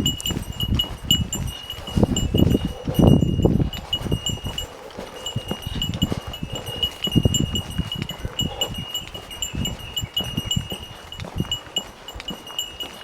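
Small bell jingling continuously, a bright high ringing struck again and again in an irregular rhythm, like a bear bell swinging from a walking hiker's pack. Under it are irregular low thumps and rumble, heaviest in the first few seconds.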